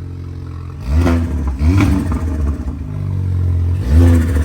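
Modified car engine just after a cold start, blipped three times through a loud aftermarket exhaust: idling between sharp revs, about a second in, just under two seconds in and near the end.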